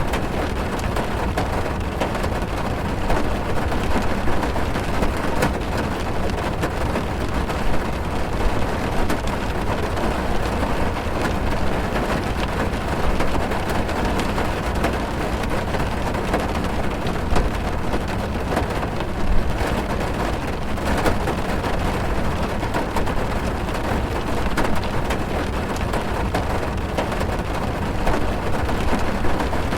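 Heavy rain drumming on a car's roof and windows, heard from inside the cabin: a steady dense patter of drops over a low rumble, with a few slightly louder hits.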